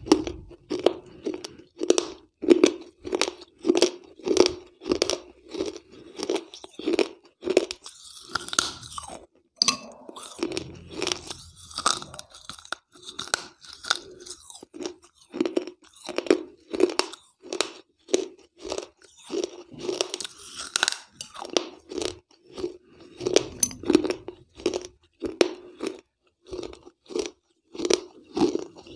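A person chewing and crunching pieces of a soaked terracotta piggy bank (gullak) close to a lapel microphone, in a steady rhythm of about two chews a second.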